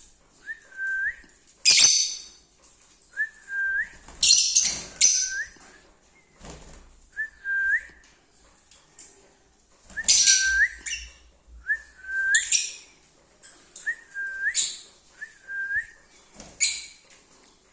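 Lovebirds chirping in short, harsh, shrill bursts every second or two. Between the bursts a short whistled note with a quick upward flick at the end repeats again and again.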